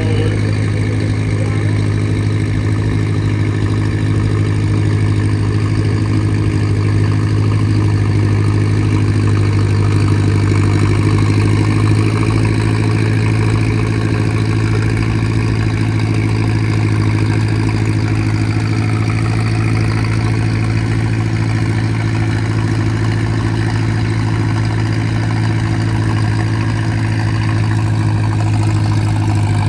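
Tractor engine running at a steady speed, a loud, even drone that holds one pitch without revving up or down.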